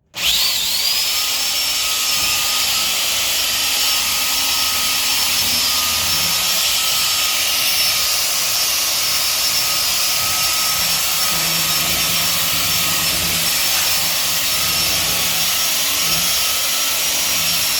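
Electric belt sander switched on, its motor whining up in pitch to speed, then running steadily with a high whine over a strong hiss.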